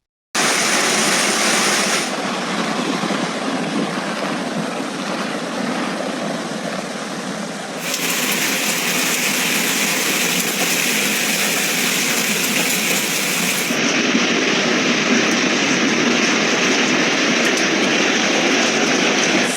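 Steady rushing of floodwater, a dense noise without distinct impacts, joined from several short clips so the tone changes abruptly about 2, 8 and 14 seconds in.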